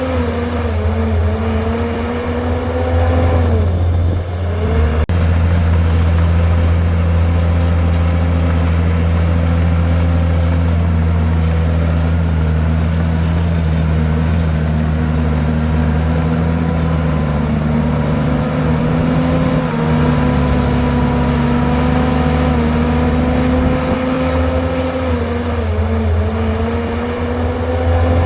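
Komatsu bulldozer's diesel engine running steadily under load, its pitch sagging briefly and recovering about four seconds in and again near the end.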